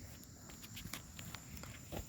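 A few light, quick footsteps, faint, with a steady high insect drone behind them.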